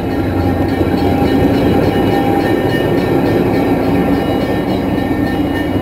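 Narrow-gauge passenger train running on the rails: a steady loud rumble and rattle of the cars over the track, with a thin, steady high ringing above it.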